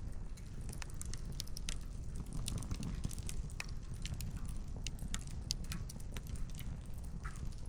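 Wood campfire crackling: irregular sharp pops and snaps from the burning logs over a steady low rumble.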